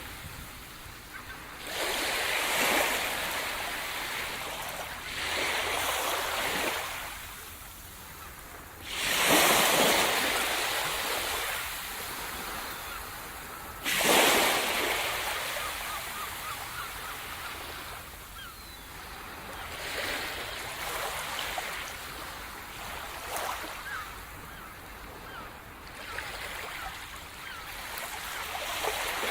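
Sea surf: waves breaking and washing up the shore every few seconds, the loudest crashes about nine and fourteen seconds in, with faint short gull cries in the later part.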